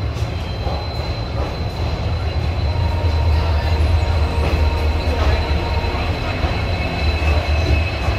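Indian Railways passenger coach rolling along the track through the station, heard from its open doorway: a steady low rumble of the wheels on the rails with a thin, high, steady squeal of the wheels over it.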